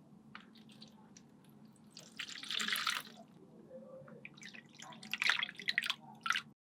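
Water pouring and dripping: a stretch of splashing about two seconds in, then a cluster of short splashes and drips near the end, over a faint low steady hum.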